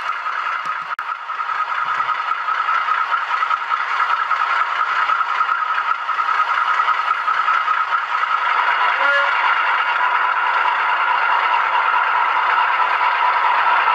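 OO scale model locomotive running on the layout's track, a steady rattle of wheels and motor, with a short pitched note about nine seconds in.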